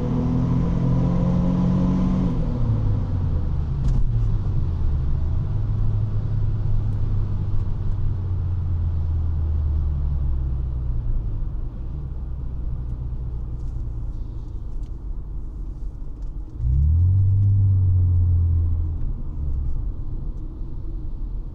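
Honda Legend's 3.5-litre V6 exhaust note: the revs climb under acceleration and then ease off, the engine settles into a steady low drone at cruise under tyre and road noise, and about two-thirds of the way through it pulls hard again for a couple of seconds before settling back.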